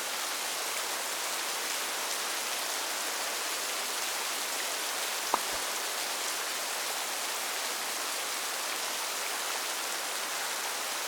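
Steady rain falling, an even hiss, with a single sharp tap about five seconds in.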